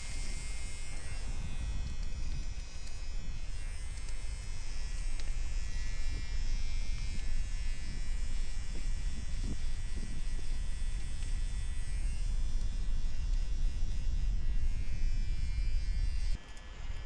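Electric trimmer buzzing steadily, over low wind rumble on the microphone.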